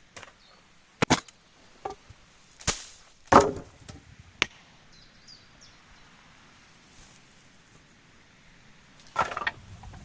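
Wood being struck or broken: a handful of sharp wooden knocks and cracks at irregular intervals, the loudest a little over three seconds in, with a quick cluster of cracks near the end.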